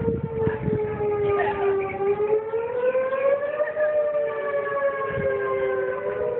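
Outdoor tornado warning sirens (civil defense sirens) wailing steadily, two pitches a little apart that rise slowly and then fall. A few low bumps come near the start and again about five seconds in.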